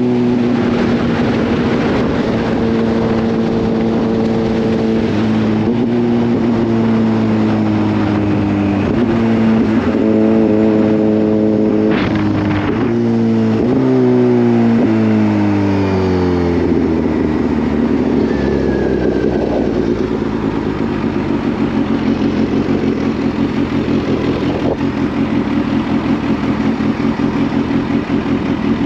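Kawasaki Z H2's supercharged inline-four running on the move: steady at first, then its pitch jumps up twice and falls away as the bike slows. From a little past halfway it settles into a low, pulsing idle.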